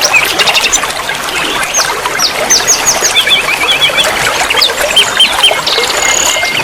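Several small songbirds chirping and singing together in quick, repeated note series over the steady trickle of running water.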